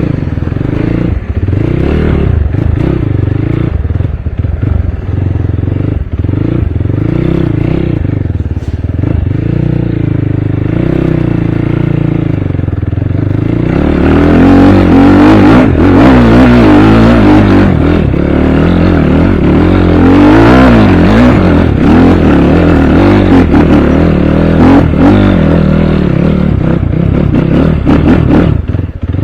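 Dirt bike engine running, its revs rising and falling. About halfway through it gets louder and busier, held at higher revs with rapid swings in pitch.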